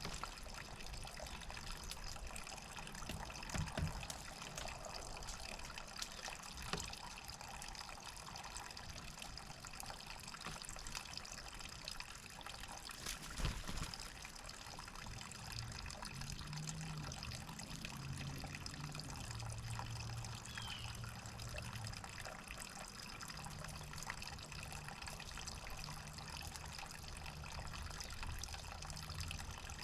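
Steady trickling water, with a few sharp knocks in the first half and a low hum in the second half. A single short high chirp comes about two-thirds through.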